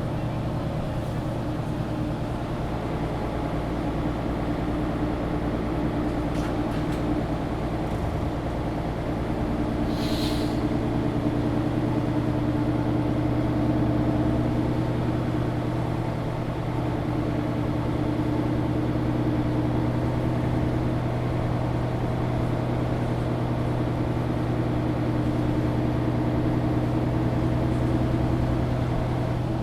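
Mercedes-Benz O530 Citaro G articulated bus heard from inside while under way: the diesel engine runs steadily, its note swelling and easing, with a short hiss of compressed air about ten seconds in.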